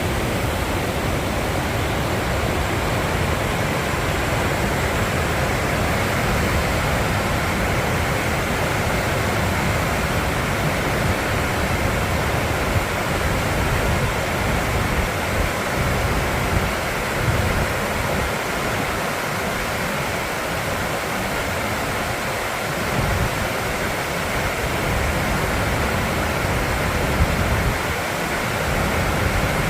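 Waterfall rushing steadily: a wide, even hiss of falling water with an uneven low rumble underneath.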